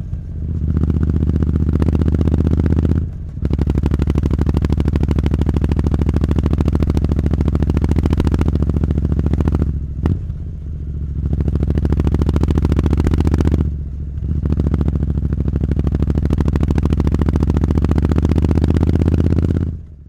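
Triumph Street Scrambler's parallel-twin engine running through a Zard aftermarket exhaust, held at a steady raised speed and dropping back briefly three times, with one sharp crack about ten seconds in. It cuts off at the end.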